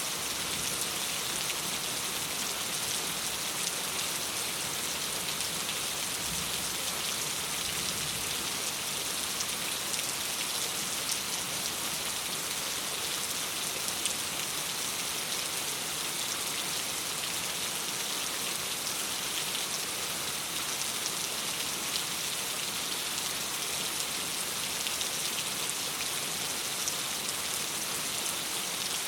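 Steady rain falling on a window: a dense, even hiss with a few sharp ticks here and there.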